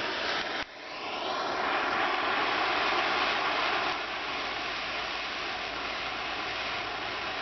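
Handheld propane torch flame hissing steadily as it heats the steel seam. It drops out briefly about half a second in, then builds back up and settles.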